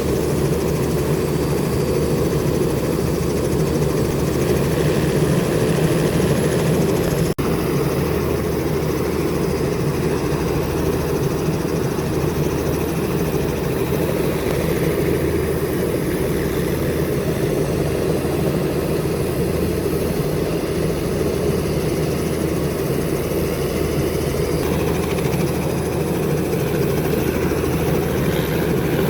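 Helicopter in flight: steady rotor and turbine noise with a rapid flutter, broken by a split-second drop about seven seconds in.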